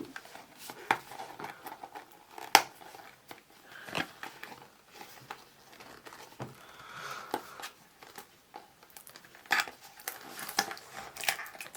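Mystery-box packaging being handled and opened by hand: scattered clicks and taps with bouts of crinkling.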